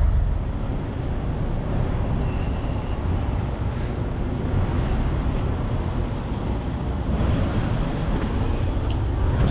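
Steady vehicle noise from a semi truck on the move: low engine rumble mixed with road noise, with a swelling whoosh near the end.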